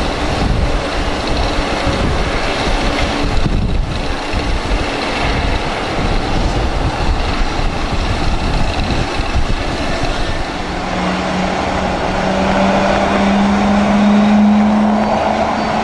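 Boeing 767-300ER airliner during pushback: a heavy low rumble, joined about ten seconds in by a steady hum that slowly rises in pitch, as a jet engine spools up.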